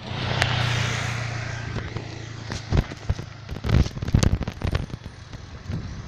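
Phone knocking and rattling in a loose handlebar holder as the bicycle rides over rough ground, with irregular sharp knocks from about two and a half seconds in. A steady low hum comes before them.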